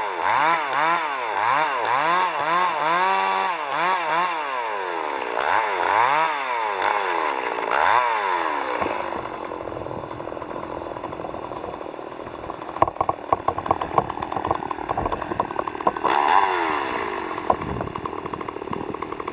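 Two-stroke chainsaw revving up and down repeatedly, then running more steadily with a rapid crackle of ticks through the second half.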